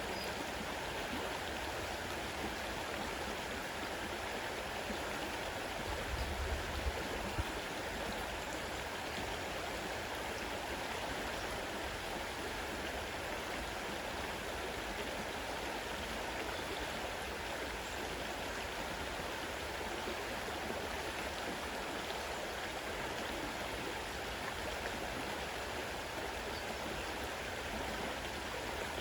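Fast-running river, a steady rush of water, with a few low bumps about six to seven seconds in.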